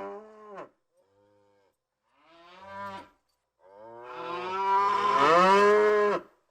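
Buffalo mooing: a few short moos, then a long, louder moo starting about three and a half seconds in.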